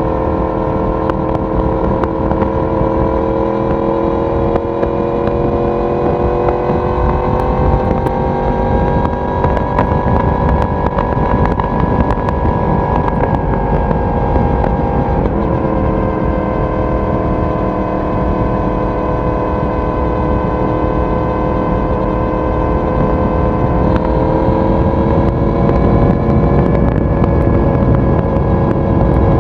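Yamaha YZF-R1 crossplane inline-four exhaust at steady expressway cruise, the engine note rising slowly under light throttle. About halfway through it steps sharply down on an upshift, then begins climbing again near the end, over a steady rush of wind and road noise.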